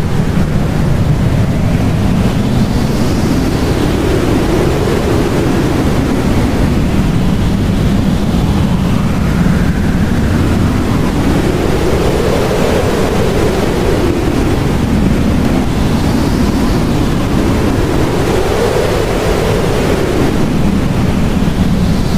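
Blizzard wind blowing steadily. Slow gusts rise and fall in pitch, as a whistling howl, every few seconds.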